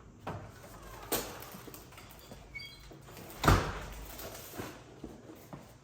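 A sharp knock about a second in and a heavy thump about three and a half seconds in, with scattered light clicks and rattles between.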